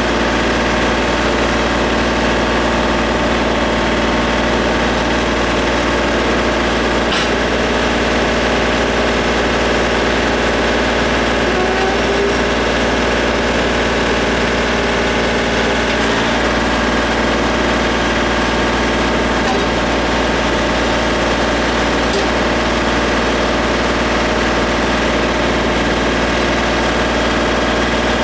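John Deere compact tractor's diesel engine running at a steady idle, with a few faint clicks over it.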